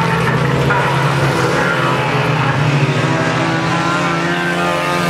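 Engines of several cars towing caravans, running hard together as they race round the track, a loud, steady mix of engine notes.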